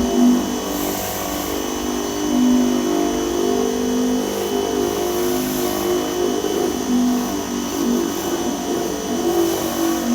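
DeWalt 2100 PSI electric pressure washer running and spraying: a motor-and-pump hum that wavers in pitch, with a steady high whine and the hiss of the water jet.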